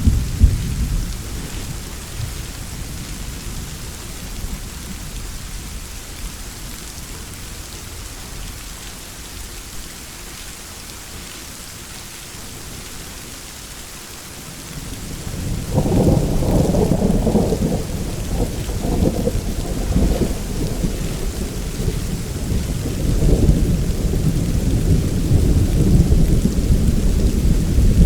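Steady rain with rolling thunder: a deep rumble dies away in the first couple of seconds, then a new peal breaks about halfway through and keeps rumbling, swelling again near the end.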